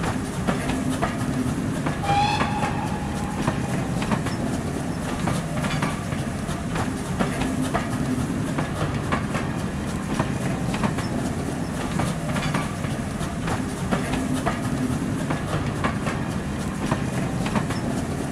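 A train running on rails: a steady rumble with regular clicking of wheels over the track, and a brief high tone about two seconds in.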